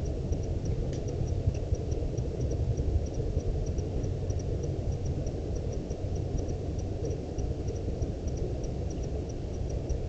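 Rapid, regular high-pitched chirps from a small creature, about four to five a second and often in pairs, over a steady low rumbling noise.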